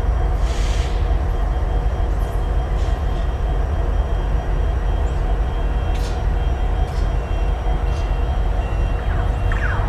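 A track renewal train working slowly along the line: a steady low machinery rumble with scattered clicks and clanks. Near the end, a brief sliding metallic twang as the newly laid rails are stressed while being pulled.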